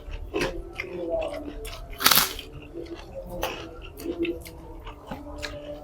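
Close-miked chewing and crunching of food, with scattered small crackles and one loud crunch about two seconds in.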